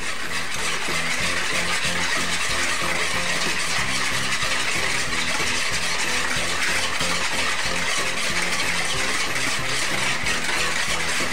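Wire whisk beating egg yolks, sugar and milk for pastry cream in a plastic bowl: a fast, steady rattle and scrape of the tines against the bowl.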